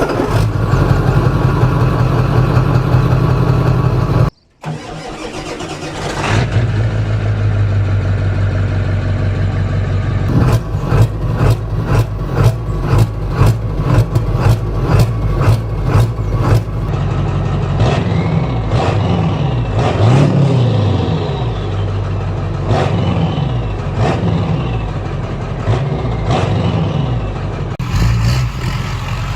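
A 7.3 L Powerstroke turbo-diesel V8 in a 1996 Ford F350 running through a custom NASCAR-style boom tube exhaust. It is idling at first, then gives a string of short, sharp throttle blips about twice a second, then is revved up and down over and over. There is a brief cut in the sound about four seconds in.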